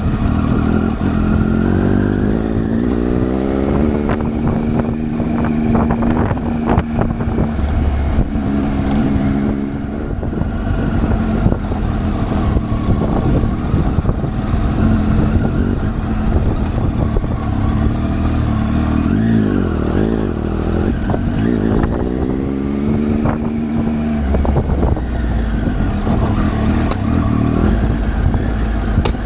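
Triumph Tiger 800's three-cylinder engine running under way, its pitch climbing as the bike accelerates about a second in and again about two-thirds of the way through, over a steady rushing noise.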